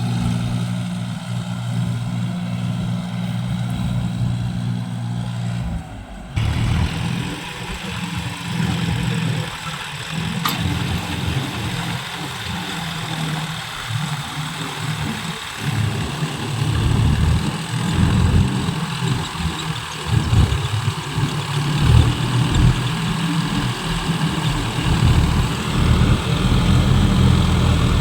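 Tractor diesel engine running steadily, then after a sudden change about six seconds in running unevenly, rising and falling as if under varying load, louder toward the end.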